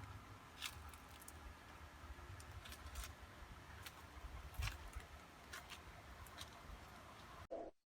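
Faint natural outdoor background with a low rumble and scattered sharp clicks and ticks. It cuts off suddenly to silence near the end.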